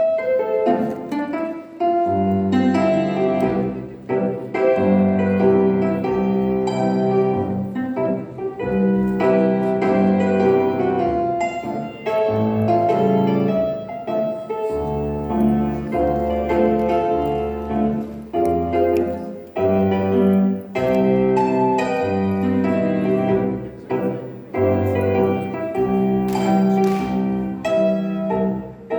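Piano music with repeating phrases, starting abruptly and playing on steadily.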